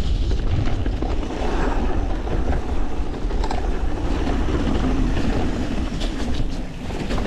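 YT Industries Capra 4 mountain bike riding fast down a rough trail: tyres rumbling over dirt and rock, with a steady clatter of chain and frame rattle. Wind buffets the helmet camera's microphone.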